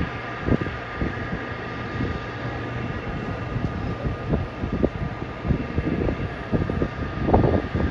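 Jet airliner engines whining steadily across the airfield over a low rumble, with gusts of wind buffeting the microphone.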